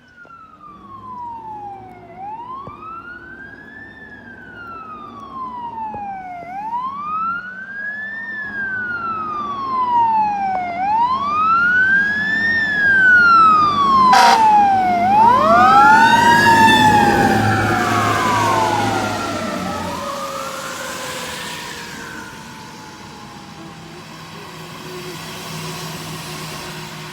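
Fire truck sirens wailing as the apparatus drive past: a slow wail rising and falling about every four seconds, joined by a second siren about halfway through. Engine rumble swells to its loudest about midway, then both sirens fade into the distance. A single sharp crack sounds just before the loudest part.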